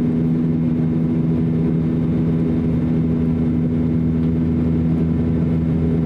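Steady drone of an Airbus A321's IAE V2530-A5 turbofan engines and rushing air, heard inside the passenger cabin. A low hum holds an even pitch and level throughout.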